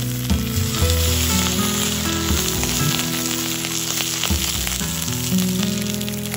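Eggs and sausages frying in hot fat in a cast-iron pan: a steady, dense sizzle.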